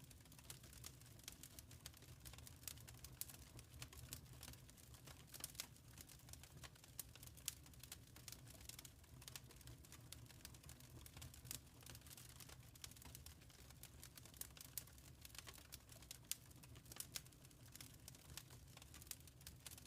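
Wood fire crackling faintly: an irregular stream of small pops and snaps over a steady low rumble.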